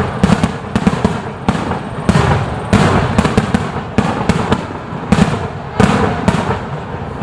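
Fireworks display: a rapid, irregular series of aerial shell bursts with crackling, several loud bangs a second.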